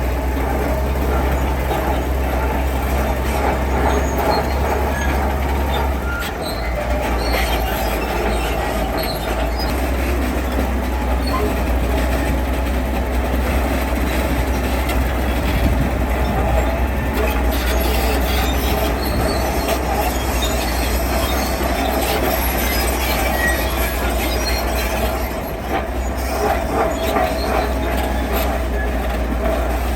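Heavy diesel earthmoving machine running steadily under load, with metallic squealing and clanking typical of steel crawler tracks. The level dips briefly about six seconds in and again near the end.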